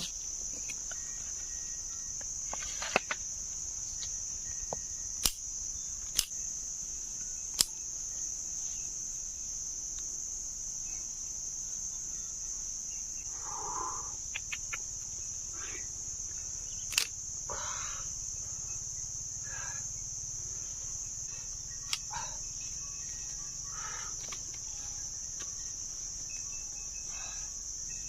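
Insects in the forest making a steady, high, unbroken drone. About six sharp clicks or snaps cut through it, the loudest sounds here, plus a few softer short rustles.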